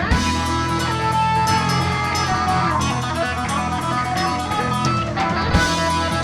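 Live rock band playing an instrumental passage, with electric guitar to the fore.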